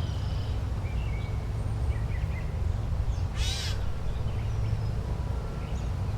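A crow caws once, harshly, about three and a half seconds in, with faint small bird chirps scattered around it over a steady low background rumble.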